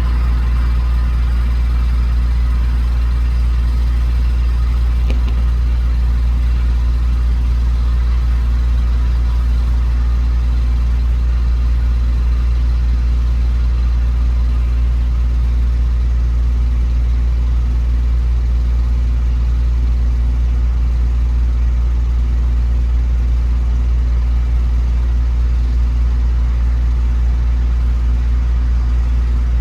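Steady low drone of a semi truck running at an even highway speed, engine and road noise heard from inside the cab.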